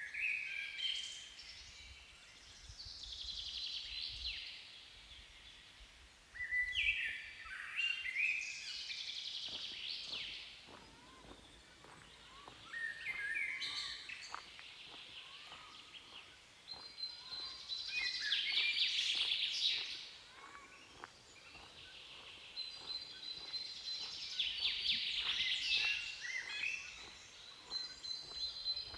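A songbird singing in repeated phrases of quick, varied high notes, each phrase two to three seconds long, about six phrases with short pauses between them.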